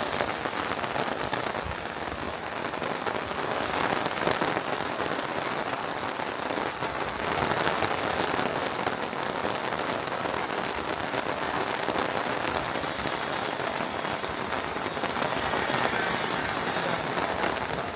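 Steady rain falling, a continuous hiss made up of many small drop impacts on hard surfaces.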